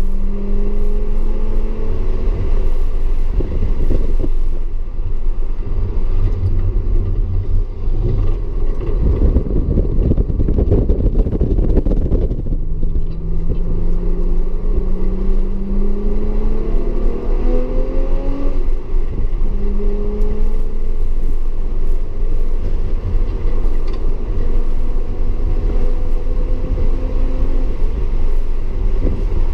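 Audi S4's engine accelerating and easing off under steady tyre and road noise. The pitch climbs from about a third of the way in, drops back at each upshift and climbs again. Before that there is a rougher, noisier stretch with no clear engine note.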